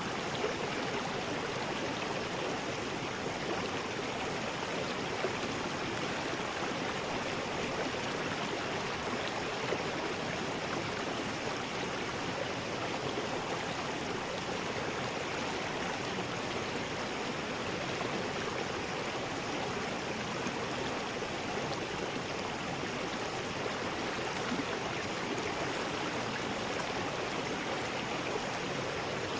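River rapids: water rushing steadily over rocks, a constant even rush with no change.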